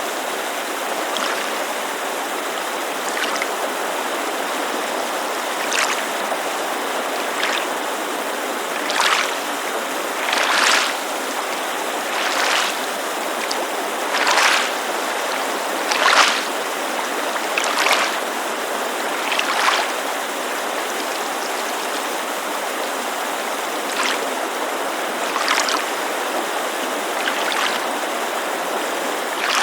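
Small waves lapping against a lakeshore in soft splashes every second or two, over the steady rushing hiss of a mountain creek.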